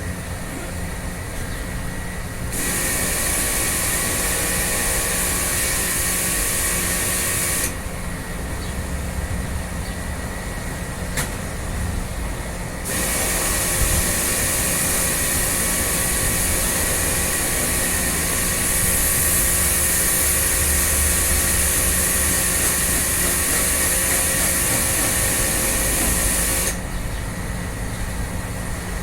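Pressure washer cleaning air-conditioner parts: a hissing water jet sprays in two long bursts, switching on and off sharply, over the steady hum of the machine's motor.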